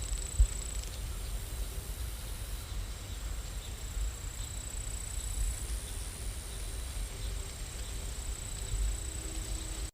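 Steady rain: an even hiss over a low rumble, with a faint high steady whine and a single soft knock about half a second in.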